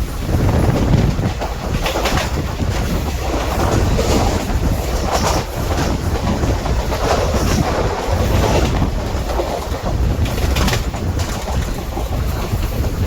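Passenger train running along the track: a steady low rumble with irregular louder clatters every second or two.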